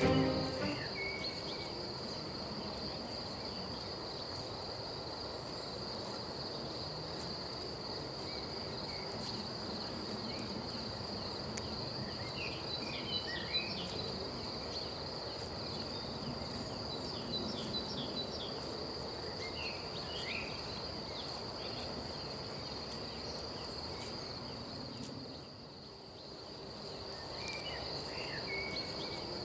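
Steady high-pitched insect chorus, cricket-like, with a few short chirping bird calls now and then.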